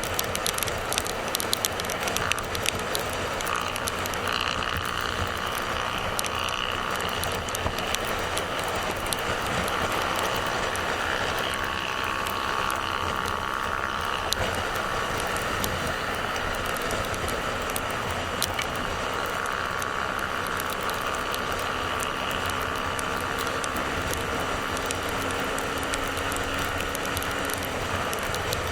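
Motorcycle riding at speed: steady engine, tyre and wind noise, with sharp ticks and clicks that are thickest in the first few seconds.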